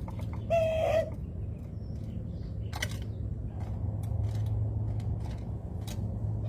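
A single bird call about half a second in, over a steady low hum, followed by a few faint scattered clicks.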